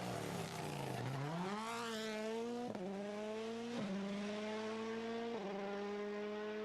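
Rally car engine dropping to low revs, then revving up hard and accelerating away, with short breaks in the note about three times as it shifts up through the gears.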